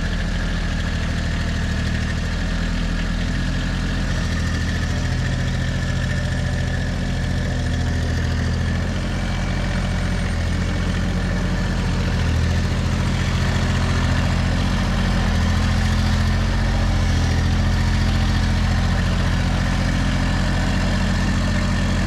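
Diesel garden tractor engine running steadily, a little louder over the second half, with a thin steady high whine above it.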